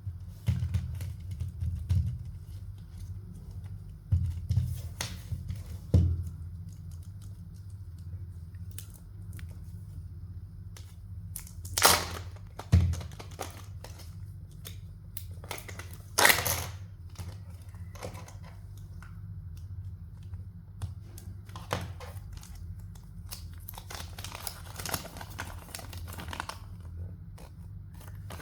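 Kinder Joy egg wrappers crinkling and tearing as they are handled and opened: irregular crackles, with a few louder tears, and some dull thumps from handling.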